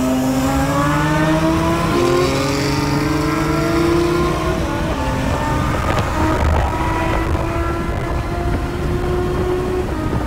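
Lamborghini Huracán's V10 engine with a loud aftermarket exhaust, accelerating hard and heard from inside the cabin. Its pitch climbs and drops at upshifts about two seconds in and near five seconds, then climbs more slowly before another shift near the end.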